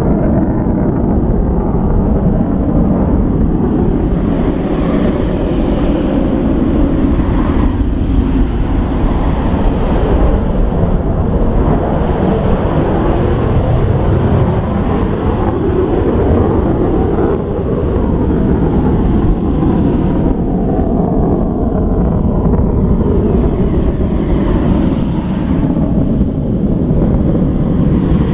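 F-15 Eagle jet engines at high power during takeoff: a loud, continuous, low-heavy roar that swells and wavers slowly.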